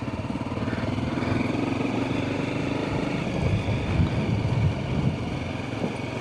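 Adventure motorcycle engine running at low speed on a potholed dirt track, its note shifting as the throttle opens and closes, with a few louder bumps a little past halfway.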